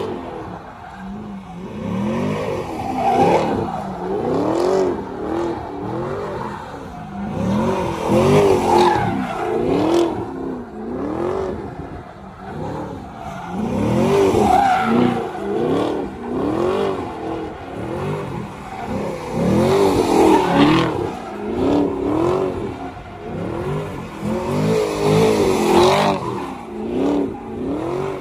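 Chevrolet Camaro doing donuts, its engine revving up and dropping back over and over, every second or two, as the rear tires spin and smoke on the pavement.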